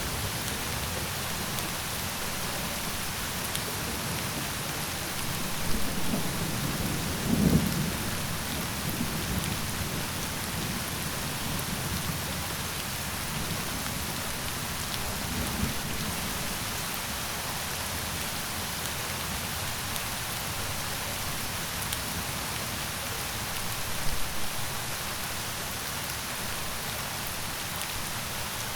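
Steady, heavy rain falling, with a few short low rumbles of thunder, about six and seven and a half seconds in and again near the end.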